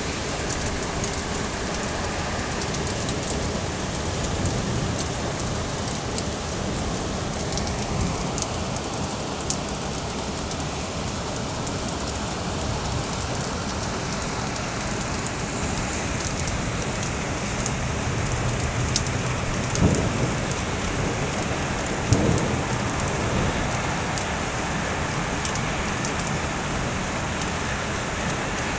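Steady heavy rain falling during a thunderstorm, with scattered ticks of drops striking nearby surfaces. Two brief, louder thuds come about two-thirds of the way through.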